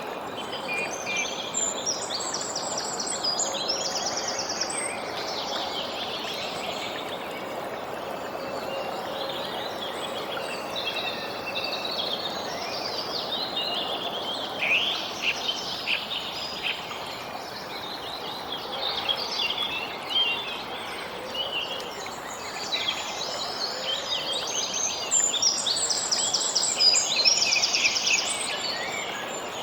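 Songbirds chirping and singing, with rapid trills near the start and again near the end, over a steady background hiss.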